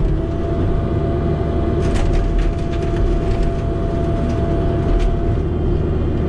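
A small demolition machine's engine runs steadily under load with a constant hydraulic whine, while wooden boards crack and splinter several times about two seconds in and once more about five seconds in. The whine drops away just after the last crack.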